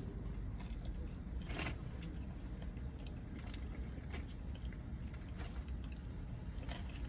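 A person chewing fried chicken close to the microphone: scattered small clicks and wet mouth noises, with one louder crunch about a second and a half in, over a low steady hum.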